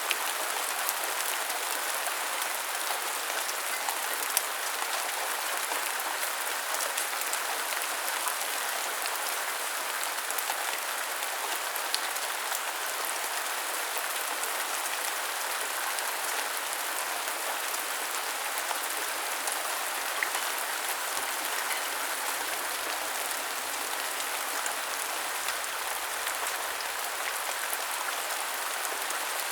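Rain falling steadily, an even hiss with scattered single drops ticking sharply now and then.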